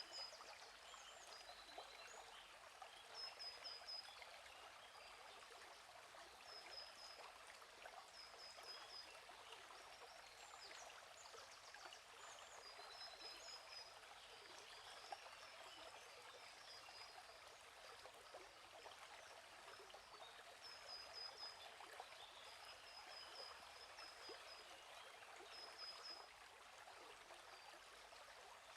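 A gently flowing stream, faint and steady, with small birds chirping short, high repeated notes every second or two.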